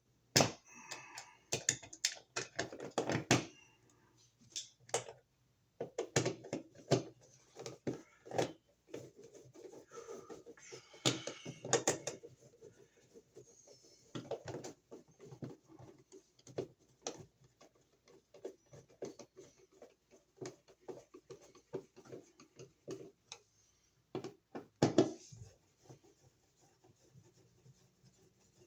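Irregular clicks, taps and scrapes of a wall receptacle being pushed into its electrical box and fastened with a hand screwdriver, busiest at the start, around ten seconds in, and again about twenty-five seconds in.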